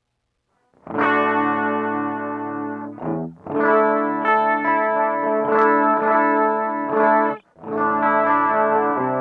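Electric guitar with distortion played through a TC Electronic Flashback delay and looper pedal: sustained strummed chords that start about a second in, cut off briefly twice and ring on again.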